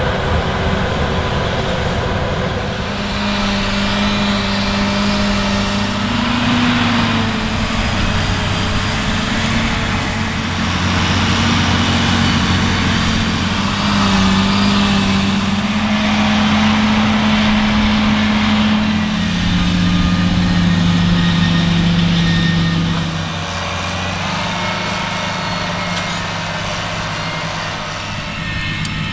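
Heavy diesel engine of farm machinery running hard, its pitch rising and falling a little several times, over a dense mechanical clatter; it eases slightly about three quarters of the way through.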